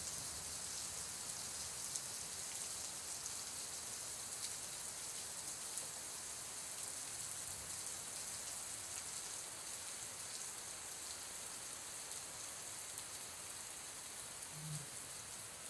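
Rain falling steadily, an even hiss with no breaks, with a faint low bump near the end.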